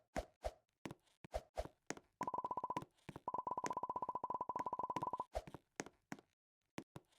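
Scattered sharp clicks, then a fast, even run of high clicks lasting about three seconds with a short break near the start, then a few more single clicks.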